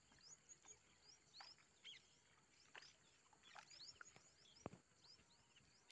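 Faint small-bird chirping: many short high calls, a few a second, with one soft click about four and a half seconds in.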